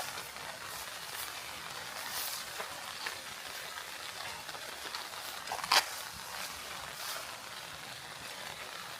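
Steady rain hiss with scattered light taps, and one sharp, louder tap a little past halfway.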